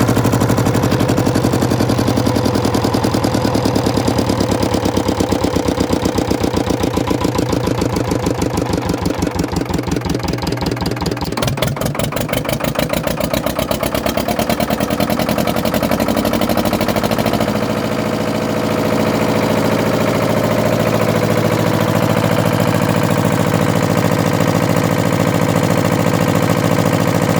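Lister HA2 two-cylinder air-cooled diesel engine running, its beat slowing towards the middle and its note changing about two-thirds of the way through.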